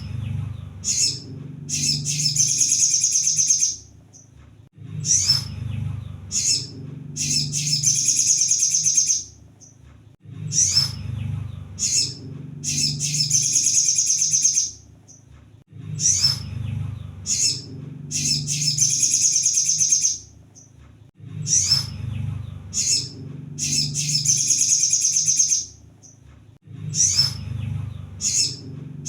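Crimson sunbird (kolibri sogon) song: a few short, high chips, then a rapid, dense, high trill lasting about two seconds. The same phrase repeats about every five seconds like a loop, five times over, with a low rumble under each phrase.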